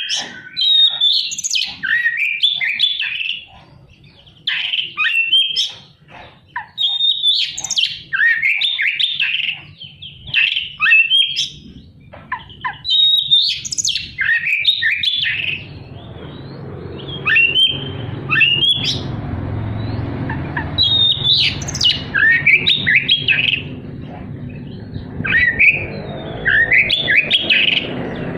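Oriental magpie-robin singing in loud, varied phrases of harsh notes and mimicked calls, with short pauses between phrases. From about halfway a steady low rumble runs underneath.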